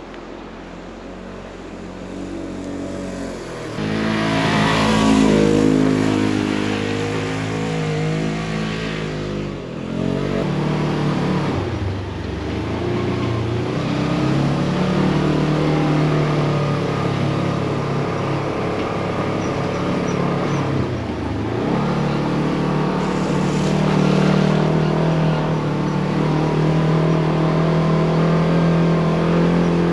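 Polaris General XP 1000 UTV's parallel-twin engine revving and pulling through deep snow, its pitch climbing and falling as the throttle comes on and off. A rushing hiss rises over it about four seconds in and again about two-thirds of the way through.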